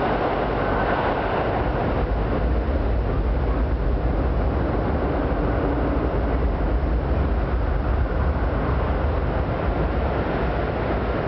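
Electric train rumbling in an underground station, a steady low rumble with hiss that echoes off the enclosed platform and grows heavier in the middle of the stretch.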